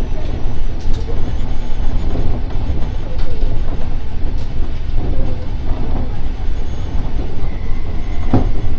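E231-1000 series electric commuter train running between stations, a steady low rumble heard from inside the leading car, with one sharp knock about eight seconds in.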